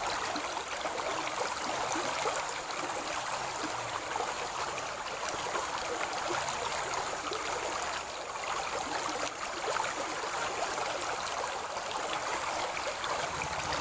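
Steady rushing and trickling of a stream running high and murky after rain.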